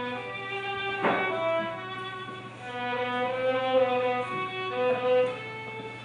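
Slow music led by a violin playing long held notes that change pitch every half second or so, over a steady low hum.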